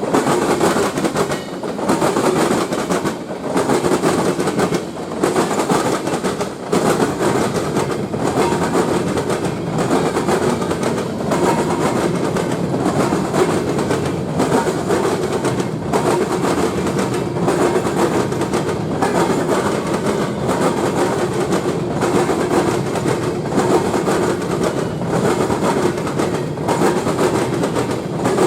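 Train cars rolling past, their wheels clattering steadily over the rail joints.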